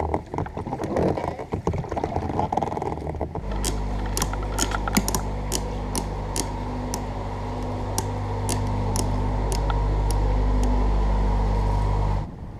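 A steady low machine hum with irregular sharp clicks over it, starting about three seconds in and cutting off abruptly near the end. Before it come a few seconds of irregular knocking and rustling.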